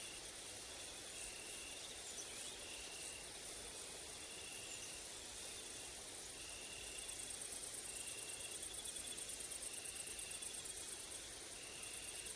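Grasshoppers and crickets stridulating. A short, even chirp repeats about once a second, and about seven seconds in a high, fast-pulsing insect buzz starts up and runs on with one brief break, over a faint hiss of woodland ambience.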